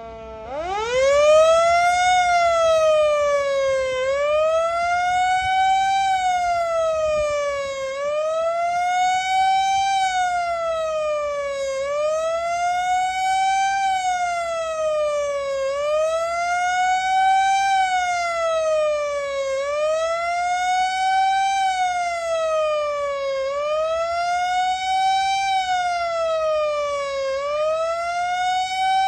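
Outdoor warning siren, the kind used as a tornado siren, starting up with a steep rising tone in the first second or two and then sounding a wail: the pitch rising and falling steadily about every four seconds.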